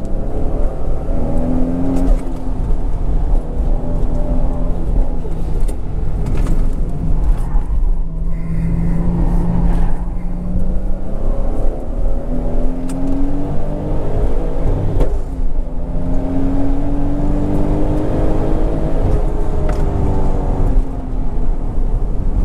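Toyota Supra MKIV's single-turbo 2JZ-GTE straight-six heard from inside the cabin at full throttle. Its pitch climbs as it pulls through a gear and drops back at each shift or braking, several times over.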